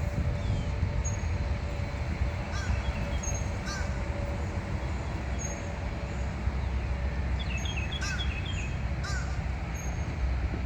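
Wild birds calling outdoors: scattered short calls and chirps, with a quick run of chirps about three quarters of the way through, over a steady low rumble.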